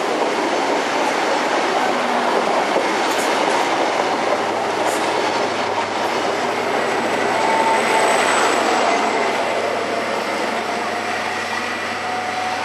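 First Great Western High Speed Train (HST) coaches running past along the platform: a steady, loud noise of wheels on the rails, with a faint thin wheel squeal in the second half.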